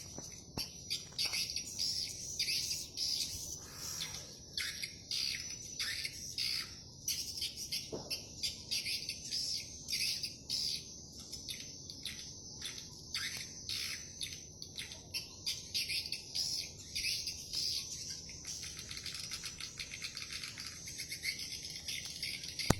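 Swiftlets twittering: many short, high chirps in quick succession, overlapping into a continuous chatter.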